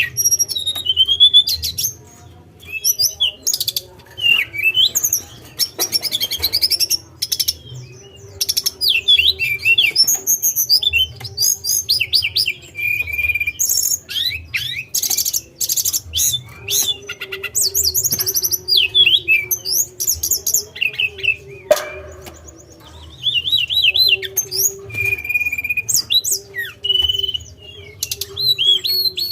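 Caged tledekan songbird singing a long, varied song of rapid high chirps, trills and whistled glides, broken by short pauses. A faint steady hum runs underneath.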